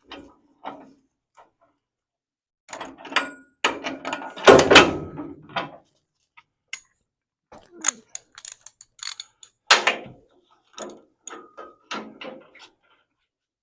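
Steel car-body rotisserie being taken apart: scattered metallic clanks, knocks and rattles, some with a brief ring. The loudest cluster comes about four to five seconds in.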